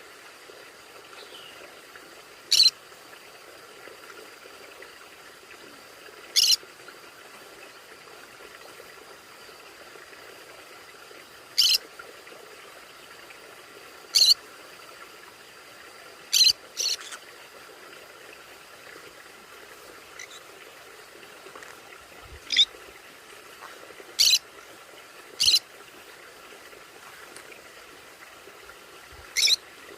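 Pet conures giving short, sharp single screeches, about ten of them spaced a few seconds apart, two of them in quick succession, over a faint steady background with a thin high tone.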